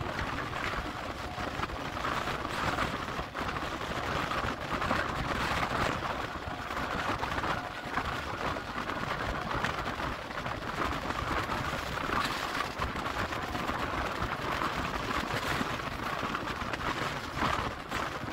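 Steady running noise of a Kolkata suburban EMU local train at speed, heard from on board: wheels on rails, with an express train passing on the next track.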